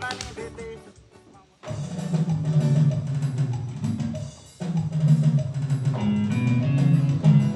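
A band playing music with a drum kit and a strong bass line. It drops out briefly about a second in, then comes back in, with another short break after about four and a half seconds.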